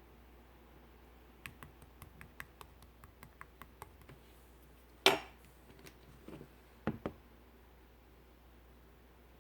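Hands handling slime and its hard containers: a quick run of small clicks, about four a second, then one sharp, much louder knock about five seconds in and two quick knocks a couple of seconds later.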